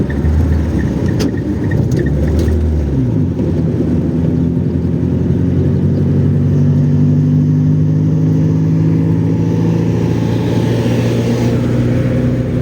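Car engine running under way, its pitch dropping briefly about three seconds in and then holding steady.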